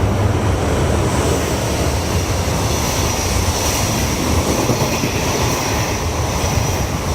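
Freight train running past a station platform: a steady, loud rumble of wheels on rail with a high hiss above it.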